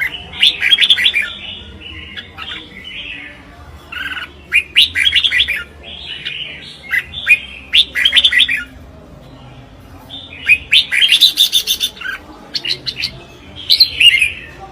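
Red-whiskered bulbul singing short, bright, warbling phrases in bursts with brief pauses between them. This is the bulbul's competitive song, with a longer, busier run of phrases about two-thirds of the way through.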